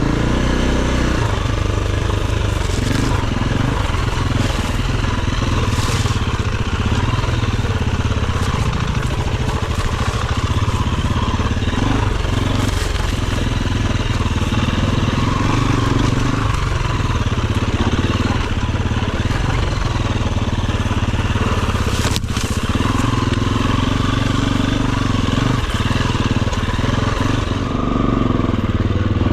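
Enduro dirt bike engine running loud and steady, its revs rising and falling in short stretches. There is one sharp knock about two-thirds of the way through.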